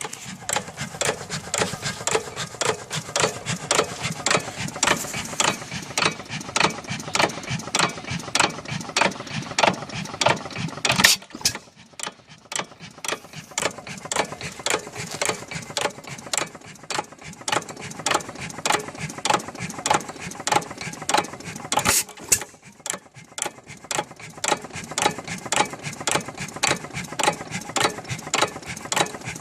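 5 hp Monitor hit-and-miss engine running: a fast, steady clatter of clicks from its valve gear and governor as the flywheels spin, broken twice by a single sharper bang, about a third of the way in and again two-thirds of the way in.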